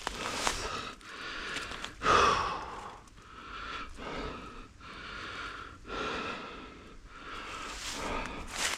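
A runner's heavy breathing, one breath about every second, the loudest just after two seconds in.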